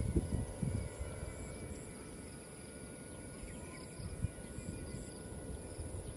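Wind buffeting the microphone in gusts, strongest in the first second, over a faint steady high-pitched drone of several held tones.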